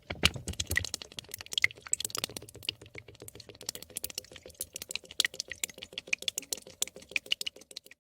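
A rapid, irregular run of small hard clicks and taps, densest and loudest in the first two seconds, with a faint steady hum underneath.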